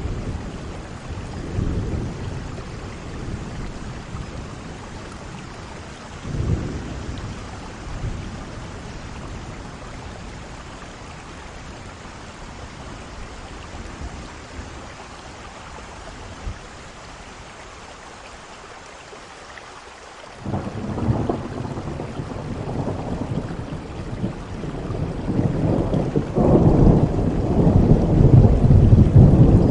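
Steady heavy rain with rolling thunder. A low rumble comes about six seconds in, and about two-thirds of the way through thunder breaks in suddenly and builds to its loudest near the end.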